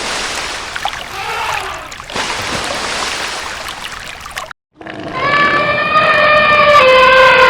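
Water splashing and trickling, then after a brief cut a loud, sustained, high-pitched animal call held at a steady pitch, stepping down slightly near the end.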